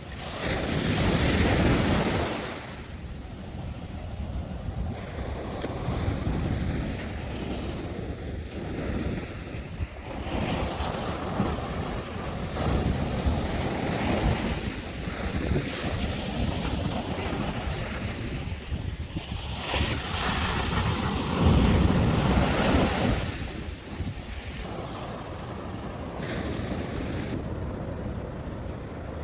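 Sea waves breaking and washing in, swelling loudest about a second in and again about two-thirds of the way through, with wind buffeting the microphone.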